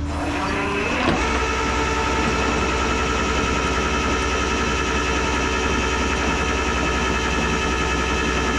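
Vehicle running, heard from inside the cab: a low steady hum with a short rising whine, a click about a second in, then a steady drone of held tones.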